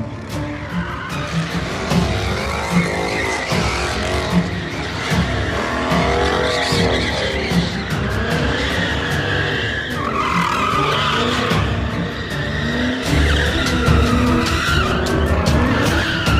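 Background music with a steady beat, mixed with vehicle noise and wavering, squealing tyres skidding.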